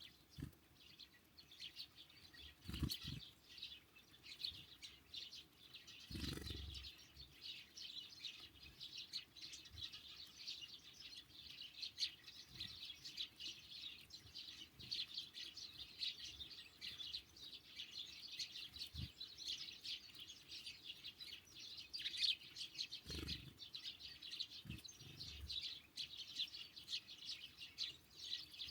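Small songbirds at a feeder, sparrows and great tits, chirping continuously in a dense chatter. Soft wing-flutter whooshes as birds fly in and out about 3 s in, around 6 s, and twice near the end.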